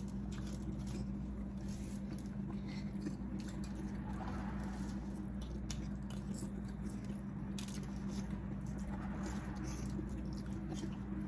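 Close-up eating sounds: chewing of crispy french fries, with scattered small clicks and crackles as the fries are picked off their aluminium foil, over a steady low hum.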